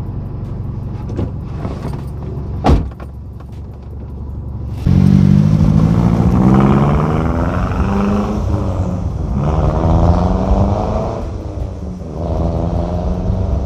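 2008 Mazdaspeed 3's turbocharged 2.3 MZR engine through a factory exhaust with the second cat and the muffler deleted. It runs steadily at first, with one brief sharp knock about three seconds in. About five seconds in it turns loud and accelerates, its pitch climbing, dropping and climbing again twice.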